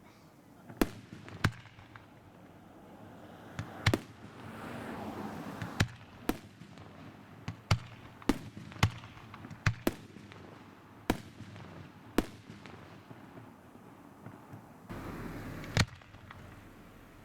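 Fireworks display: shells bursting in about a dozen sharp bangs at uneven intervals, some close together, with a swell of noise between them.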